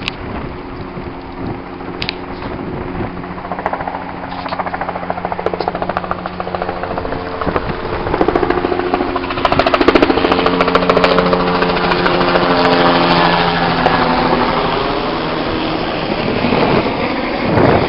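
Heavy engine running with a rapid clatter, growing louder about halfway through, as fire engines move in to dump water.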